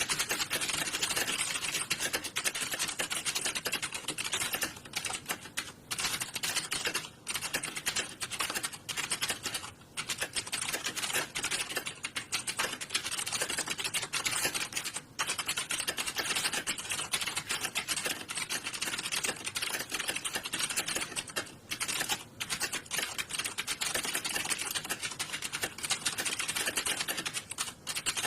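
Many computer keyboards being typed on at once, as in an exam hall during a typing test: a dense, continuous clatter of keystrokes with a few brief lulls.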